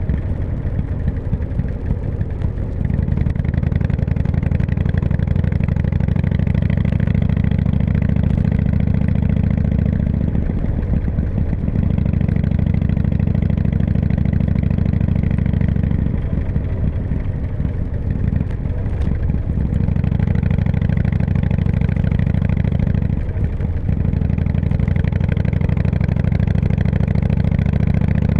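Harley-Davidson V-twin motorcycle engine running under way with a steady low note that eases off briefly and picks up again several times.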